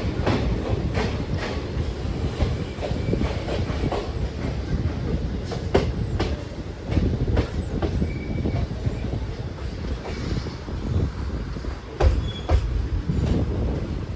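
Train running on the track: a steady low rumble of wheels, with sharp clicks and clatter as the wheels cross rail joints and a few brief high wheel squeals.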